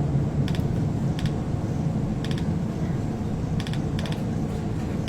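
Camera shutters clicking irregularly, roughly once a second, each click a quick double snap, over a steady low rumble.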